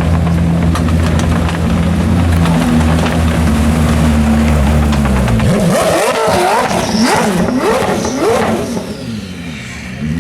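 Koenigsegg Jesko's twin-turbo flat-plane-crank V8 running steadily at low revs, then blipped in a quick series of sharp rev rises and falls about six seconds in before settling back down.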